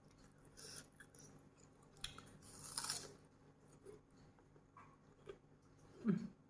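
A person chewing a mouthful of spicy grilled pork salad (nam tok moo), with soft crunches and wet mouth clicks, and a brief murmur near the end.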